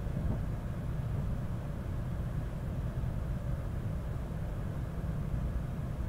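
Steady low rumble of an N700-series Shinkansen running, heard from inside the Green car cabin.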